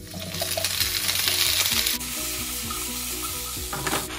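Halved red potatoes hitting hot olive oil in a frying pan and sizzling loudly; about halfway through the sizzle drops abruptly to a softer, steady frying hiss.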